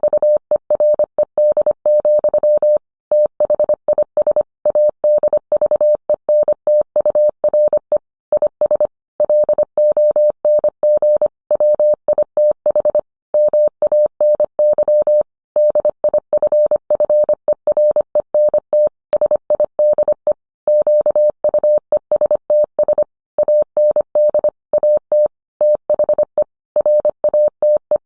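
Morse code: a single steady tone keyed on and off in a quick run of dots and dashes, with short pauses between words.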